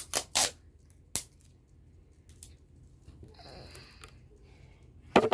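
Paper being cut and handled in crafting: a few sharp snips and crinkles, two in the first half second, one about a second in and a loud cluster near the end, with a softer scratchy rustle in the middle.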